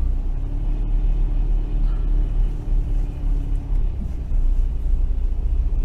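Volkswagen Amarok pickup driving slowly through snow, its engine and tyres making a steady low rumble heard from inside the cab.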